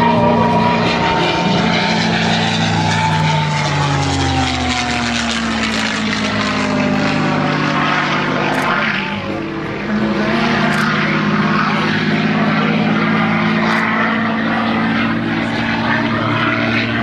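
Propeller aircraft flying past, its engine and propeller note dropping in pitch as it goes by. A second loud engine sound comes in about ten seconds in.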